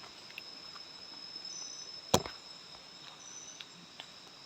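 Night insects, crickets among them, keeping up a steady high drone with a couple of short higher chirps, and one sharp crack about two seconds in.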